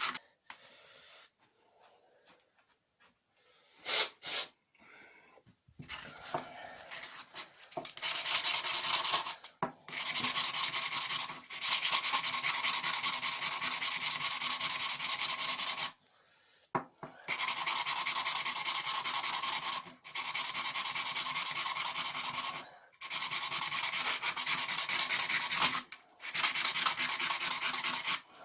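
Sandpaper being rubbed by hand over a short piece of tube to clean it for gluing, in long spells of steady scraping with brief pauses. The first third is quieter, with only a few short scrapes.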